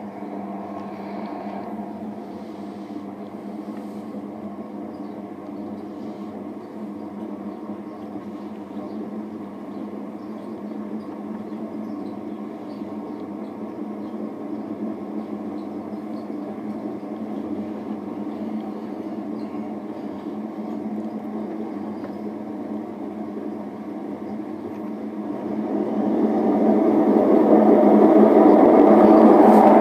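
Hotpoint WM74 washing machine drum spinning, with the steady mechanical noise of worn drum bearings. It gets markedly louder about 26 seconds in.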